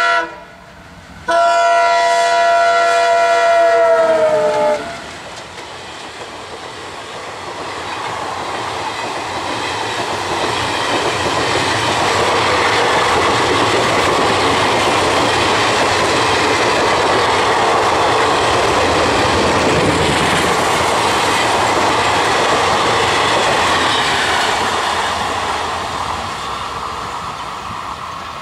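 Indian Railways diesel locomotive's multi-tone horn: the tail of one blast, then a second blast of about three and a half seconds whose pitch drops as the locomotive passes. The passenger coaches then roll by with a steady rush of wheel clatter on the rails, which swells and fades away near the end.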